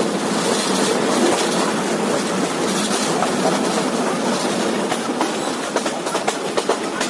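Passenger train running at speed, heard from an open carriage window: a steady rumble of wheels on the track, with sharp rail-joint clicks that come more often in the second half.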